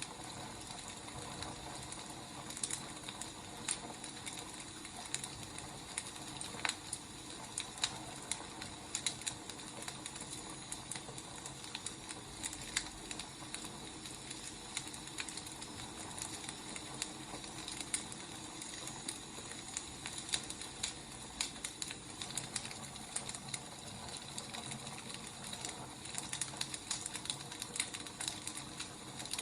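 Wood fire crackling: irregular sharp pops and snaps over a steady soft hiss of burning logs.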